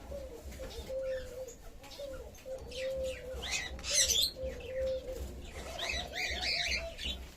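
Birds calling: a low cooing note repeated over and over, with higher chirps above it and a quick run of short notes near the end.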